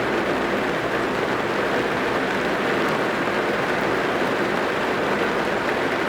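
Heavy rain drumming steadily on a car's roof and windows, heard from inside the cabin as an even, dense patter.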